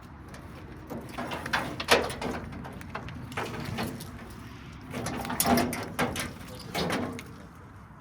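Irregular knocks and scrapes of hands-on work in a garage, coming in clusters a second or two apart, the sharpest about two seconds in.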